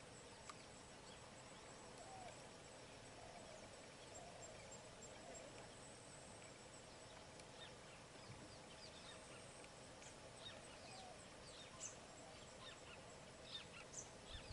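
Faint bird calls over a quiet background hiss. A few low, curving calls come in the first half, then short high chirps grow more frequent toward the end.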